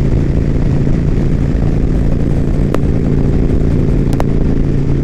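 Harley-Davidson motorcycle's V-twin engine running smoothly at a steady cruising pitch while riding, with a few brief ticks.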